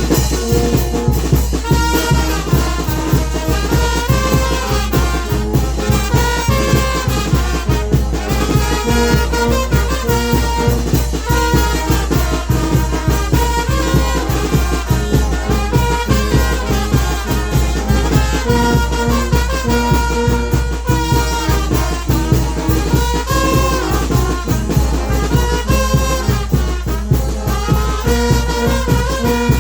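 A Mexican banda de viento (brass wind band) playing a lively tune: brass melody over a steady, driving drum beat and a low bass line.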